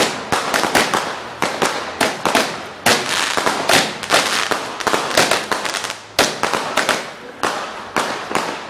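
Fireworks going off in a rapid, crackling run of sharp bangs, several a second, thinning out near the end.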